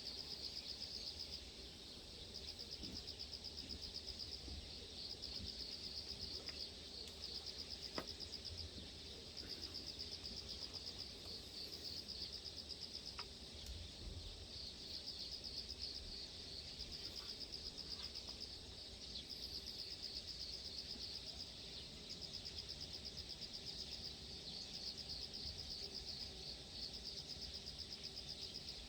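Insects chirping in rapid, high-pitched pulse trains that stop and start every few seconds, over a faint low rumble.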